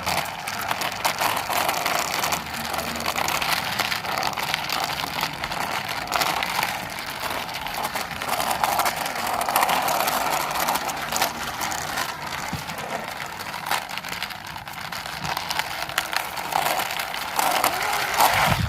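Yellow plastic toy helicopter pushed along by hand, its wheels and mechanism making a continuous rough rolling, grinding noise that swells and eases as it moves.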